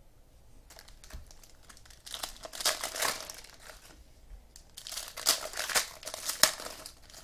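Foil trading-card packs being torn open and crinkled by hand, in two bursts of crackling: one about two seconds in, the other about five seconds in.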